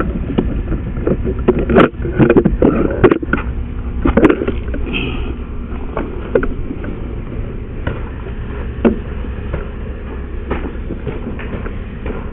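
Knocks and clatter of sewer camera equipment being moved, densest in the first few seconds, over a steady low rumble.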